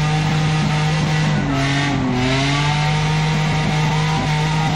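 Off-road 4x4 engine held at high, steady revs, the pitch dipping briefly about two seconds in and then picking back up.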